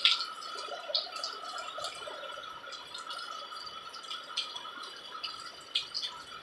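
Rain dripping: scattered, irregular drips and taps, over a faint steady high tone.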